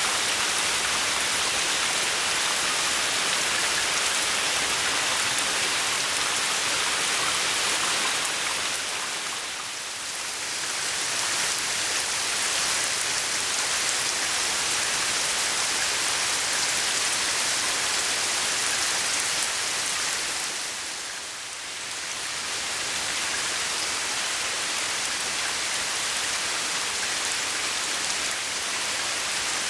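Steady, heavy rain falling on a garden pond, a dense even hiss of drops on the water. It dips briefly twice, about a third of the way in and again about two-thirds through.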